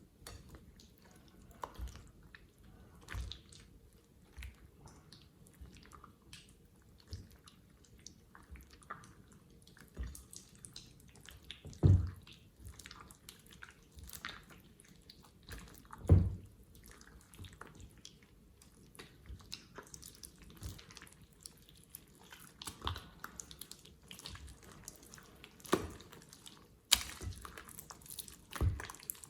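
Slime being squished and worked by hand: many small wet clicks, squelches and drips, with two louder thuds about twelve and sixteen seconds in.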